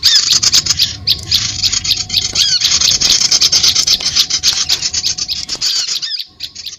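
Bird-lure recording of many small birds chirping and chattering in a dense, rapid chorus, which drops away about six seconds in.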